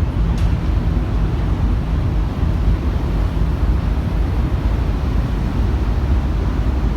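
Steady low rumble of the car ferry Katsuragi's engines heard on board, with a rushing noise over it.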